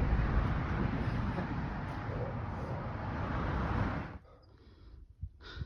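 Strong wind buffeting the microphone, a rough rushing noise that cuts off suddenly about four seconds in. A couple of light knocks follow in the quiet.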